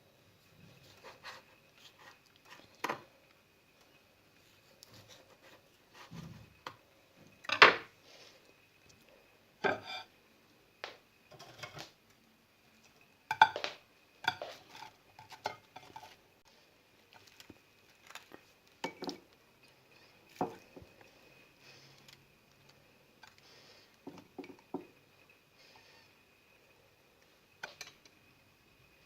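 Dishes and cutlery clinking and knocking: scattered, irregular sharp taps of utensils against plates and bowls, the loudest about a quarter of the way in. A faint steady high tone lies underneath.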